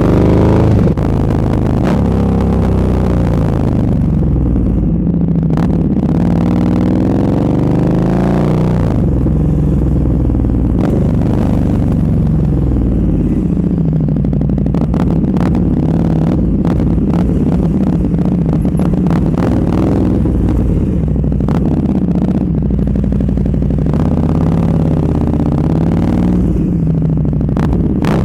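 Sport motorcycle with an aftermarket exhaust being ridden, its engine note repeatedly rising and falling in pitch as it accelerates through the gears and slows, with scattered short sharp cracks through the middle stretch.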